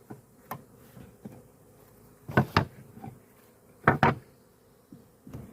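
Wooden hive frames knocking against the wooden hive box as they are shifted, with two loud double knocks in the middle and lighter clicks around them, over a faint hum of bees.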